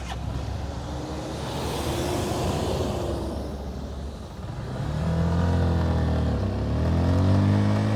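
Motorcycle engine under way over road and wind noise; about five seconds in the engine comes up loud with its revs rising, dips briefly about a second later, then climbs again.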